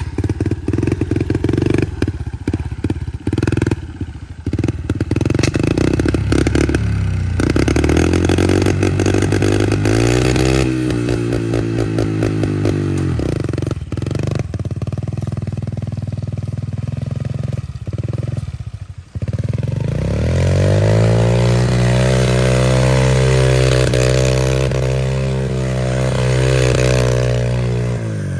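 Pit bike engine revving hard up and down while spinning donuts, choppy in the first few seconds, then climbing and holding high revs over the last third, with some clatter from the wheel throwing dirt.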